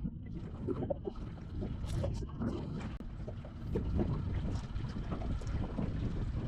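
Wind buffeting the microphone over the steady rumble of a small fishing boat on the water, with scattered small knocks.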